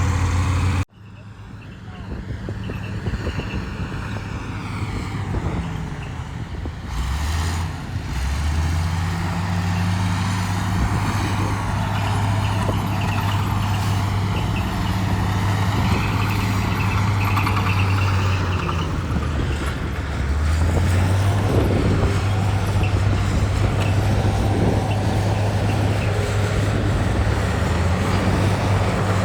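Heavy diesel engine of earthmoving machinery running, with a steady low drone. The sound cuts out sharply for a moment about a second in, then comes back. The engine's pitch rises near a quarter of the way through and again about two-thirds through as it revs up.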